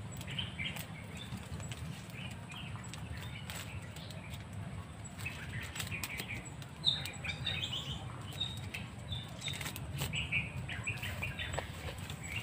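Small birds chirping in short scattered bursts, with occasional clicks and rustles of hands working a snare among twigs and leaves, over a steady low rumble.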